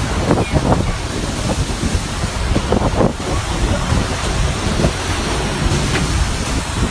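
Storm wind buffeting the microphone: a loud, steady rush of air with a heavy low rumble.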